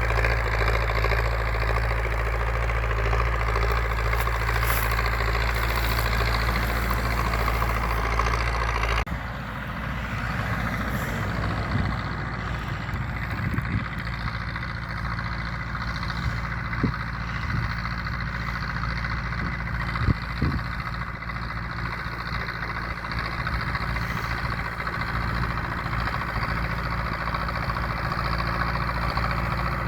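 MTZ-82 Belarus tractor's four-cylinder diesel engine running steadily. About nine seconds in the sound changes abruptly and drops a little in level, and two short sharp knocks come later.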